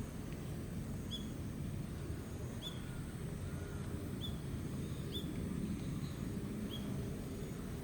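A small bird calling: about five short, high chirps spaced a second or so apart, over a steady low rumble.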